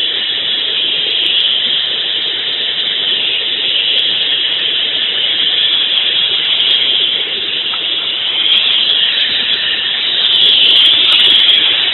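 Metal-melting furnace running under forced air, a steady rushing noise that swells slightly near the end.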